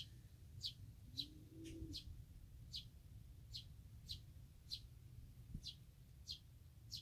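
A small bird chirping repeatedly and faintly: short, high, falling chirps, about two a second. A single low, soft call sounds about a second in.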